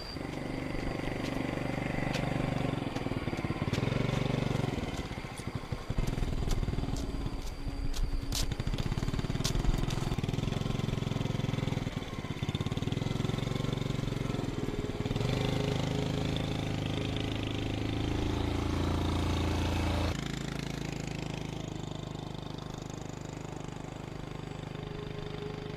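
A small engine running, its pitch stepping up and down several times, with a few sharp clicks near the middle.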